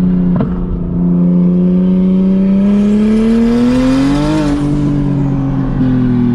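BMW 335i's N54 straight-six, fitted with a big single turbo, accelerating: the engine note climbs steadily for a few seconds under a rising rush of turbo and intake noise, then levels off and eases down near the end. A short click with a brief drop in level comes just after the start.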